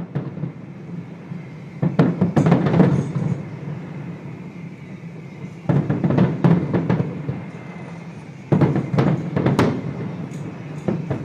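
Fireworks shells bursting in three volleys, each a sudden loud bang followed by a quick run of further bangs and crackles, over a steady low rumble.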